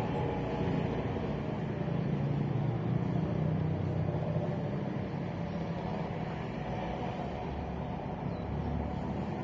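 Road traffic: vehicle engines running steadily, with no sharp events.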